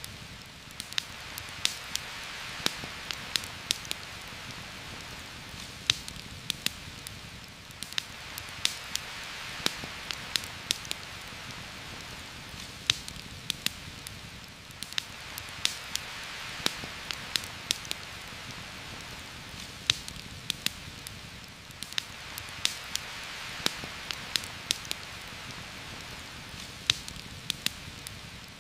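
Heavy rain, a steady hiss that swells and eases slowly, mixed with frequent sharp crackles and pops from a campfire.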